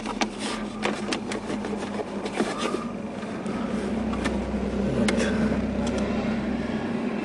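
Plastic dashboard panel of an IZh-2126 Oda being handled by hand, rubbing and creaking at its joints with many scattered clicks. These are the creaks the owner means to cure with anti-creak tape.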